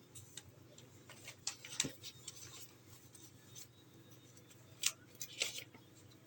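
Small sharp clicks and light rattles of plastic and metal parts being handled, with a cluster around one and a half to two seconds in and two more single clicks near the end, as cable connectors and a multimeter's ground lead are fitted to a TV's circuit board. A faint steady low hum runs underneath.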